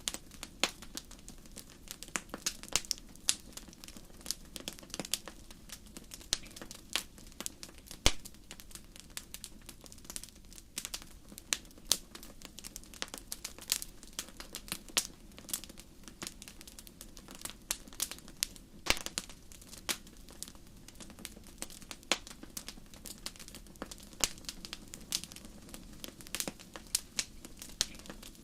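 Campfire crackling: a constant run of irregular sharp pops and snaps over a low, steady background, with one louder pop about eight seconds in.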